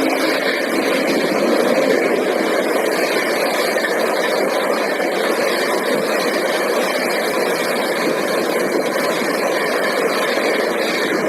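Express train passing at speed: a loud, steady rushing noise of its wheels and coaches on the rails.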